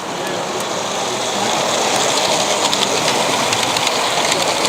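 A model train running on a layout's track, getting louder about a second and a half in, with rapid clicking of its wheels over the rail joints.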